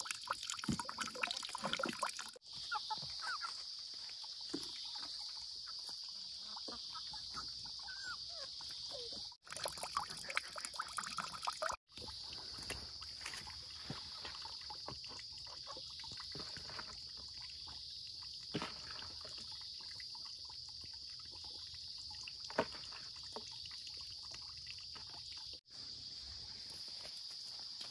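Water trickling and pouring, with small handling clicks and knocks, over a steady high-pitched outdoor drone. The sound drops out briefly at several cuts.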